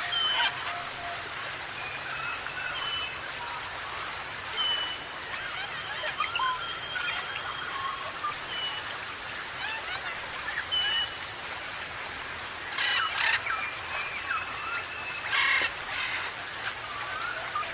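Parrots calling: a stream of short whistles, chirps and sliding notes, with two harsh squawks about three-quarters of the way through, over a steady hiss.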